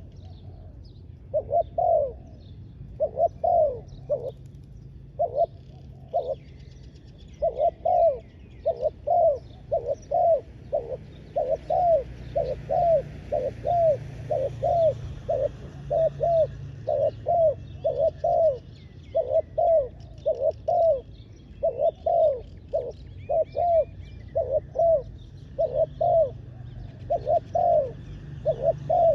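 Spotted doves cooing over and over in quick runs of short coos, with small birds chirping faintly behind.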